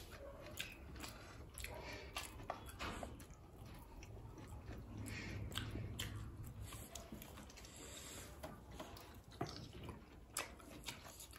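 Close-up eating sounds: chewing and biting food, with irregular soft clicks from the mouth, over a faint low hum.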